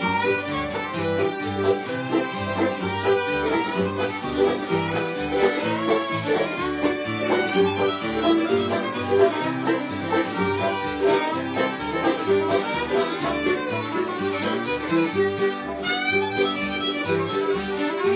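Bluegrass band playing an instrumental tune: fiddle over strummed acoustic guitar and banjo, with a stepping bass line underneath.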